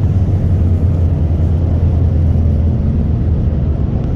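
Car running at a steady speed: a constant low engine and road drone with no revving up or down.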